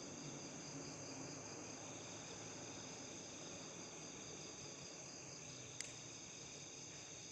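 Faint, steady chorus of crickets trilling, with a single sharp click just under six seconds in.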